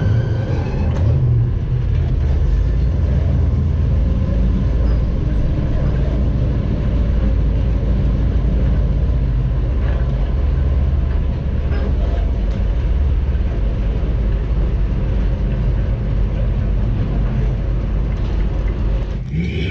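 Engine of a 1948 Ford F5 bus running steadily under way, a continuous low rumble with road noise.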